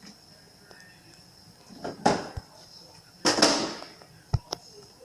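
Food containers and packages being handled and set into a refrigerator: two short scraping, rustling sounds, the second longer, then two sharp knocks close together near the end.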